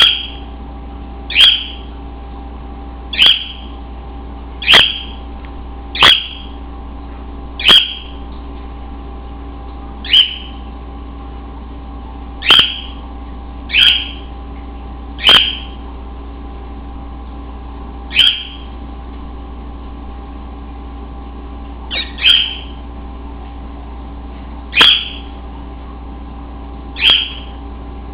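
Cockatiel giving short, sharp calls, each a quick downward-sliding chirp, repeated about fourteen times at intervals of one and a half to three seconds, with a steady hum behind.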